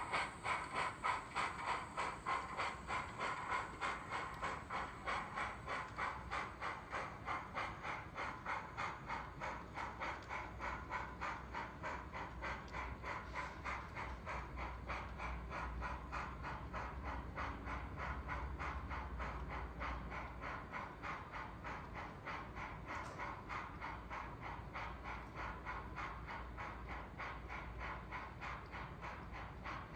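ESU LokSound decoder steam sound for an N scale brass Southern Pacific GS-1 4-8-4 locomotive: steady exhaust chuffing at about two to three chuffs a second, played through the model's small speaker.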